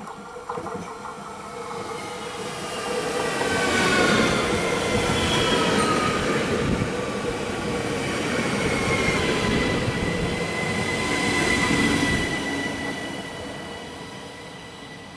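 ÖBB Cityjet electric multiple unit (Siemens Desiro ML) running past close by as it slows into the station: wheel and running noise that builds, holds for several seconds and then fades, with high whining tones that fall in pitch as the train slows, leaving a steady high whine near the end.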